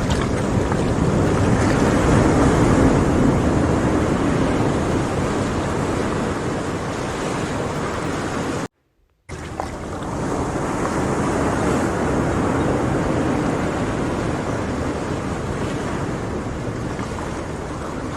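Sea waves surging and washing ashore, each rush swelling and slowly ebbing away, twice. The sound drops out completely for about half a second midway.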